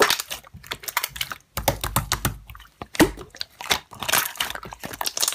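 Slime being worked by hand: a dense, irregular run of sticky crackles and small popping clicks.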